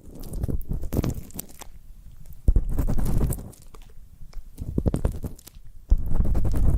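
ASMR ear cleaning: an ear pick scraping and rubbing inside a binaural microphone's ear, giving close, rumbling scratchy strokes with crackles, about four strokes with short pauses between them.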